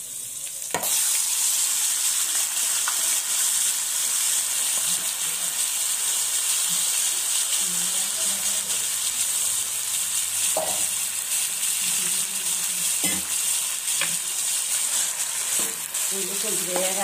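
Marinated chicken dropped into hot oil in a nonstick pan, sizzling loudly from about a second in and then frying steadily. A wooden spatula stirring it knocks against the pan a few times in the second half.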